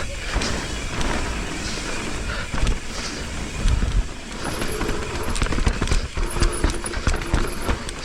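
Mountain bike riding down a dirt trail: wind on the microphone, tyres rolling over dirt and rocks, and the bike rattling over bumps. About halfway in, the rear freehub starts buzzing in short bursts as the rider coasts.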